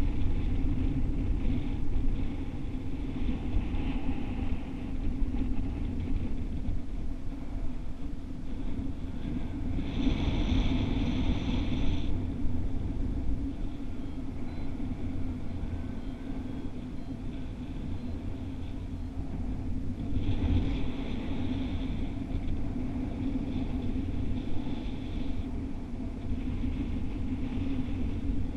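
Wind noise on the microphone: a steady low rumble throughout, with a higher hiss coming up briefly about a third of the way in and again for a few seconds past two-thirds.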